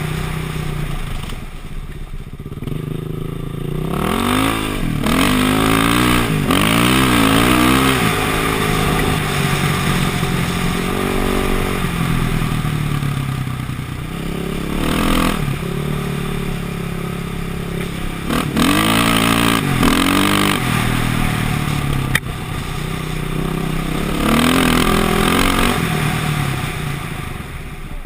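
KTM dirt bike engine revving up and down in repeated bursts of throttle as the bike is ridden off-road, with a sharp knock about two-thirds of the way through.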